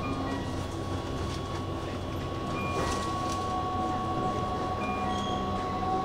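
Keihan 8000-series electric train standing at the platform before departure, its equipment giving a steady low drone and a steady high tone. A second, lower tone comes in about halfway, with a few faint clicks and short high beeps.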